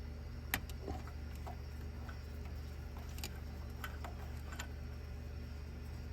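Scattered light clicks and taps of hand tools and small metal parts as the screws holding a golf cart's throttle cable bracket are taken out. The clicks are irregular, about seven in all and clustered in the first five seconds, over a steady low hum.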